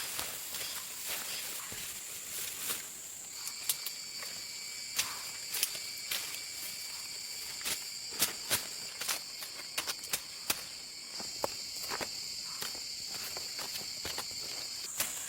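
Steady, high-pitched song of forest insects, with a second insect joining in at a lower pitch a few seconds in and stopping shortly before the end. Scattered sharp clicks and snaps sound over it.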